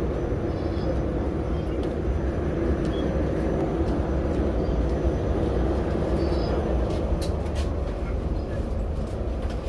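Prague metro train running with a steady low rumble and rail noise, with a few faint clicks near the end.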